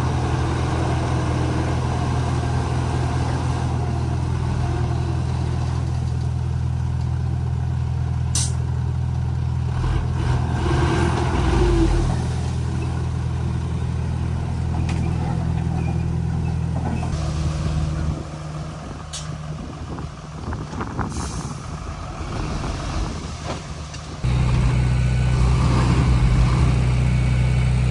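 Komatsu D31P bulldozer's diesel engine running steadily, with a few sharp clanks. The engine drops quieter about two-thirds of the way through, then comes back louder a few seconds before the end.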